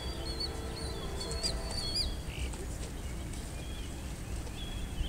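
A songbird chirping in short, repeated high phrases with quick upward flicks, over a steady low rumble.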